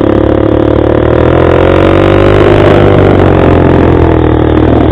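Motorcycle engine running steadily under way, its pitch rising and falling slightly with engine speed.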